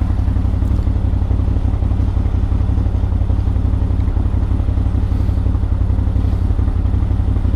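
CFMoto CFORCE 1000 ATV's V-twin engine running steadily at low speed as the machine crawls over rocks, with no revving.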